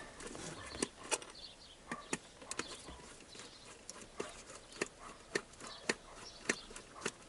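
Sharp, irregular clicks and taps of hand tools, about one or two a second, as the Torx screws holding the heater blower motor are worked loose.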